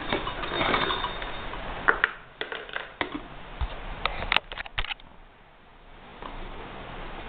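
A noisy stretch, then a few seconds of irregular sharp clicks and knocks, like small hard objects being handled. The noise fades into a short lull and then returns.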